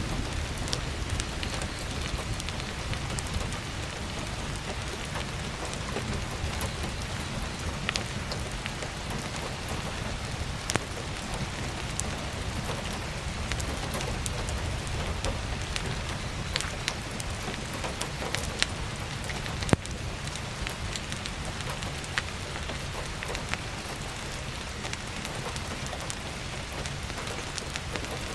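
Steady heavy rain with a low rumble, and scattered sharp crackles and pops of burning firewood, a few louder ones in the second half.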